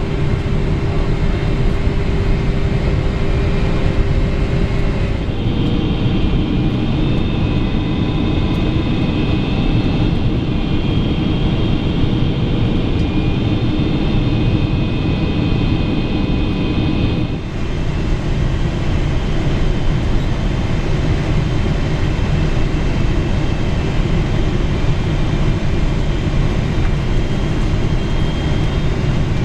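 Steady cabin noise of a Boeing 777-300ER in flight: an even rumble and rush of engines and airflow with a few faint steady tones. The sound shifts abruptly about five seconds in and again around seventeen seconds.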